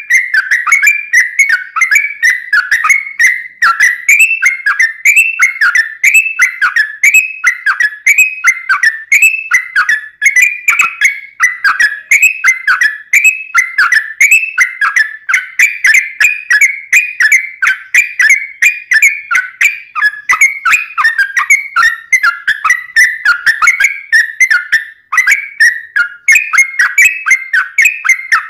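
Sooty-headed bulbul singing a long, unbroken run of quick slurred whistled notes, about two a second, without pauses.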